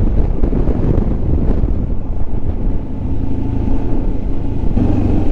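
Motorcycle on the move: wind buffeting the microphone over low engine and road rumble. From about three seconds in, a steady engine note comes through, growing stronger near the end.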